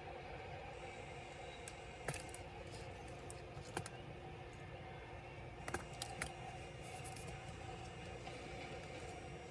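A handful of light, sharp clicks and taps from small laptop parts and tools being handled, about five in all, spread out over the stretch, over a steady low hum.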